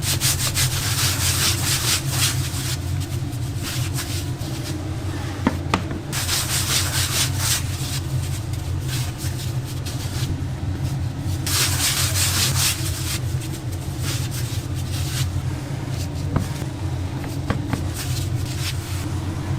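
Repeated rubbing or scraping strokes, each lasting a few seconds, over a steady low hum.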